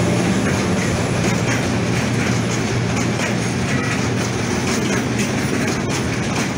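Container wagons of a long freight train rolling past close by: a steady rumble with the clickety-clack of wheels over the rail joints.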